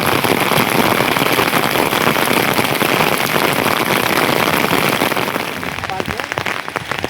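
Heavy rain falling steadily; a little over five seconds in it eases and single drops can be picked out.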